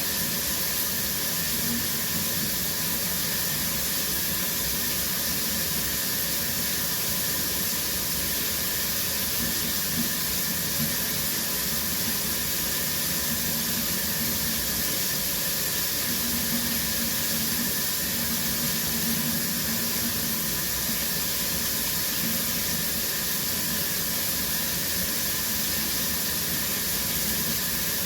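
Shower running, a steady hiss of water spraying and splashing.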